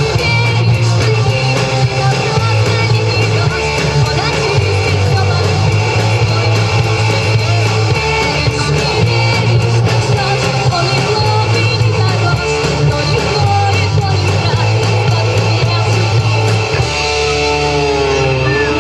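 Rock band playing loud guitar-driven music, with a bass line stepping between notes every second or two and a change in the playing near the end.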